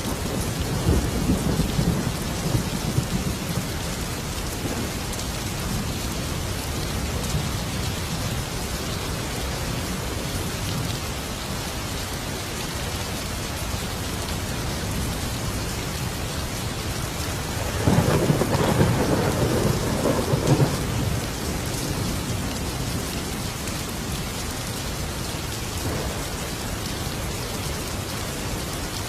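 Steady heavy rain with thunder: a rumble of thunder in the first few seconds and a louder rolling peal about eighteen seconds in.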